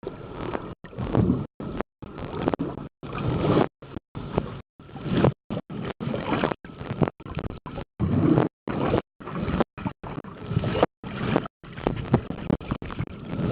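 Muffled rushing and rubbing noise heard through a waterproof camera pouch, cutting out to silence briefly again and again.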